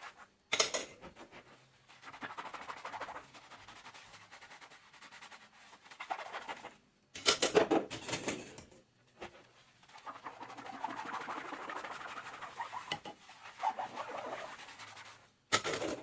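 Hand-washing dishes at a kitchen sink: a sponge scrubbing and squeaking on dishes in uneven strokes, with three short, louder bursts about half a second in, around the middle, and near the end.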